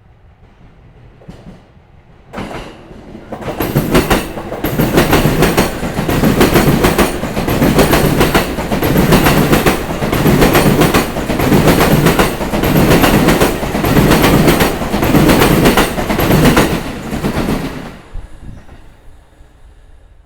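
A Sobu Line train passing over rail joints, its wheels striking the joints in a long run of loud, evenly repeated clacks. It builds up about two seconds in and dies away near the end.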